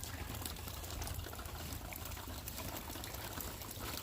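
Water pouring and trickling steadily, with a low steady rumble underneath.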